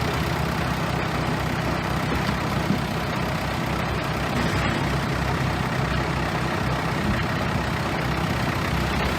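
Bulldozer's heavy diesel engine running steadily, with a constant low engine hum under a wide mechanical noise.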